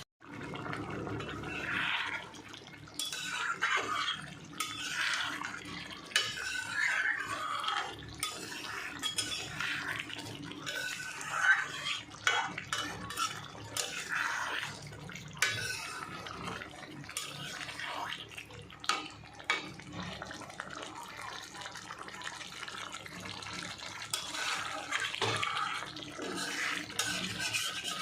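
Kitchen work at a sink: running water with dishes and utensils clinking irregularly throughout.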